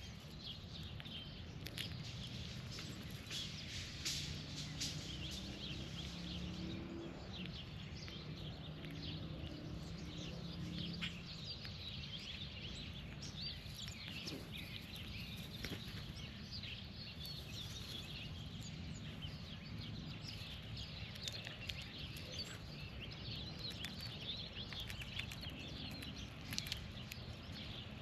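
Birds chirping and calling in many short, quick notes, over a steady low outdoor rumble.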